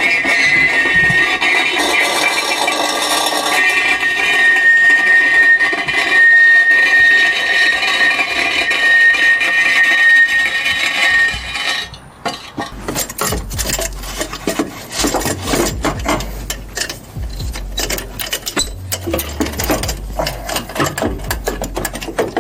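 A steady whining tone for about twelve seconds, then a long run of clanks, clicks and knocks from hand tools on metal as car exhaust parts and hangers are worked loose.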